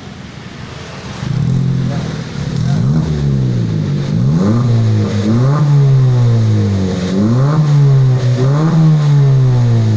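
Honda Brio's four-cylinder petrol engine revved repeatedly through a custom exhaust whose stock centre resonator and rear silencer have been replaced, with a trial aftermarket muffler fitted. About a second in it rises sharply, then the pitch climbs and falls in several throttle blips.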